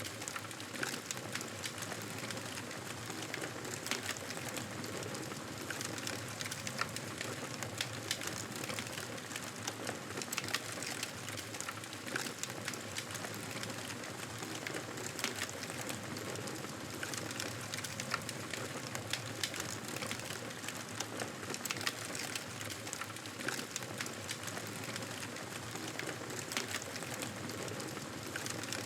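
Wood fire burning: a steady hiss with frequent, irregular small crackles and pops.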